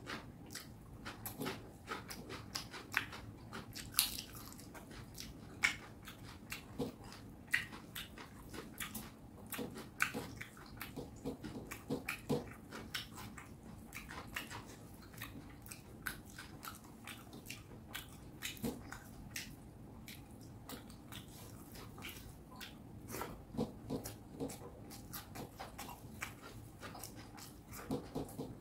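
A person chewing and biting mouthfuls of fish curry and rice, a stream of irregular mouth clicks and smacks, a few sharper than the rest.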